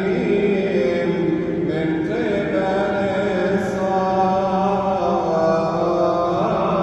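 A man's voice chanting a Coptic Orthodox hymn in long, melismatic held notes that wind slowly up and down over a steady low tone.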